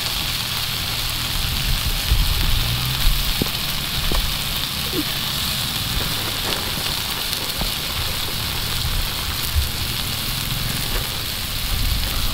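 Steady sizzling hiss of spiced onion, tomato, potato and chillies frying in oil in a pan over an open wood fire, with a few faint crackles.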